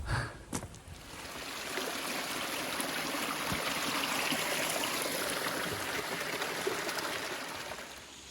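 Running water of a mountain stream, a steady rushing that grows louder and then fades away again near the end.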